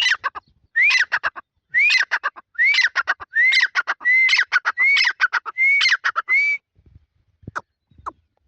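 A francolin (tetar) calling. It gives a run of about eight repeated phrases, each a rising-then-falling whistled note followed by a fast rattle of harsher notes. The run stops about six and a half seconds in, and a few short falling notes follow near the end.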